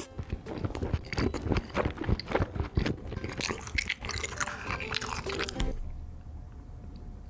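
Close-miked eating sounds: wet chewing and smacking of chewy tteokbokki rice cakes in a creamy rosé sauce, dying down about six seconds in.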